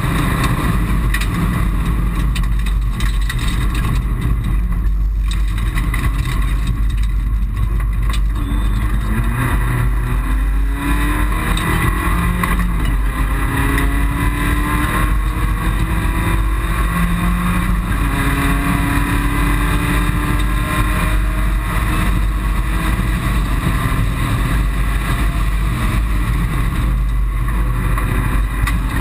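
Mitsubishi Colt rally car's engine heard from inside the cabin, accelerating hard through the gears: its pitch climbs, drops back at each shift and climbs again several times, over a heavy low rumble.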